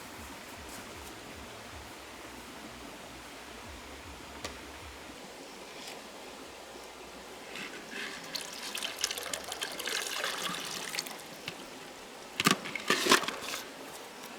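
Water splashing and trickling for a few seconds over a steady rushing background, followed by a few sharp knocks near the end.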